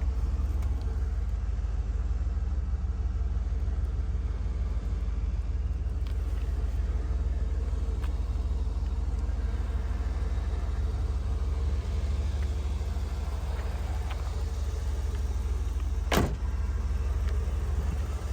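1986 Pontiac Firebird Trans Am's V8 engine idling steadily, with one sharp knock about sixteen seconds in.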